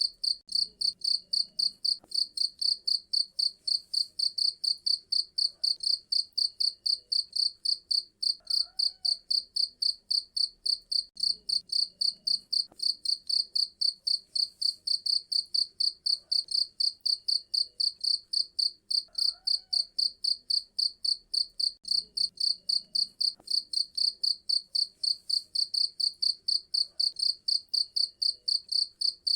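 A cricket chirping steadily and loudly, in a fast, even train of high-pitched pulses several times a second.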